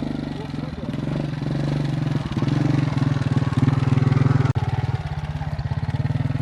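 A small engine running with a fast, even pulse, growing louder toward the middle. It cuts out for an instant partway through, then carries on steadily.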